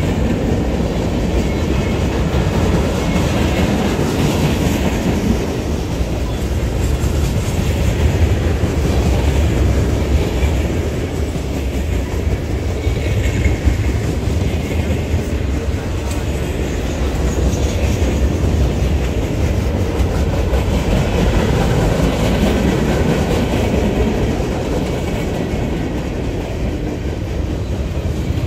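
A train's rail cars rolling past close by: a loud, steady rumble with the clickety-clack of wheels over the rail joints.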